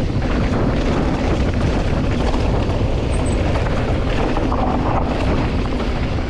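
Wind buffeting the microphone and the rattle of an electric mountain bike and its tyres rolling over loose rock on a fast descent.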